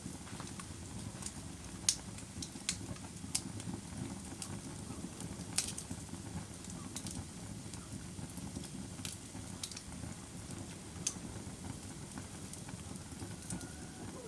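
Wood fire crackling in a fireplace: sharp pops and snaps at irregular moments, roughly one a second, over a steady low rumble of the burning logs.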